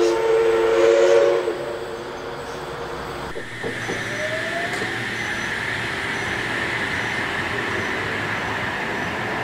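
A train whistle with several notes sounding together, cutting off about one and a half seconds in. After a sudden change, an electric double-deck suburban train passes, its motors whining upward in pitch over steady rail rumble and a high hiss.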